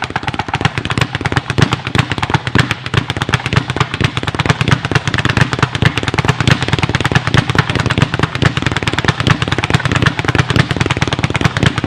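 Leather speed bag being punched continuously in a fast, even rhythm, each hit followed by the bag rebounding off the platform board in a rapid drumroll-like rattle, like a little drum cadence.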